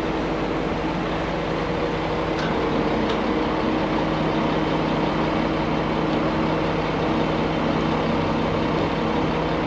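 Large truck engine running steadily at low revs while the truck is slowly steered into position.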